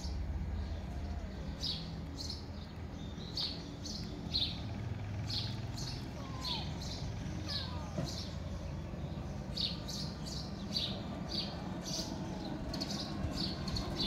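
Small birds chirping: short high chirps repeated throughout, roughly one or two a second, over a steady low hum.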